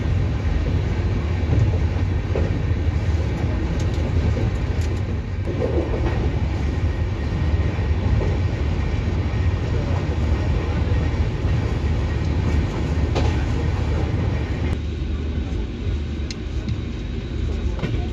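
Steady rumble of a double-decker AC chair-car coach running at speed, heard from inside: deep wheel-and-track noise. The higher rushing part of the noise drops away suddenly near the end.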